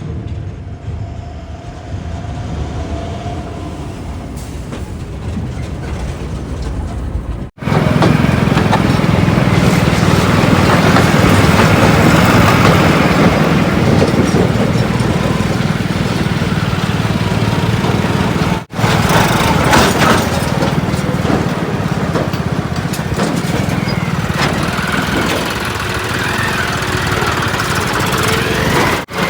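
Heavy diesel engines of earth-moving vehicles running steadily, in clips cut together; the sound gets louder after a cut about seven seconds in, with another cut past the middle.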